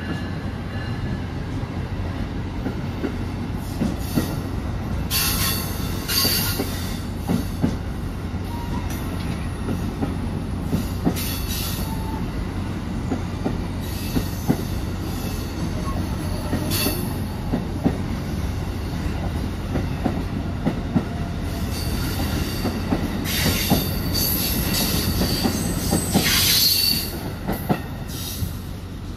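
A train rolling past with a steady rumble, its wheels clacking over rail joints and switches. High wheel squeal comes in several short bursts, and a longer spell near the end, before the sound falls away.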